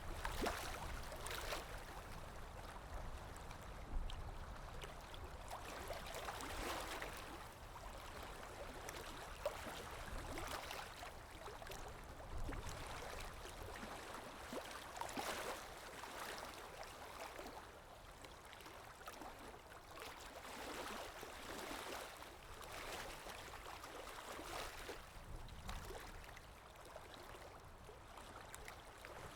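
Calm sea waves washing gently onto a shore, a soft swell of water noise rising and falling every few seconds.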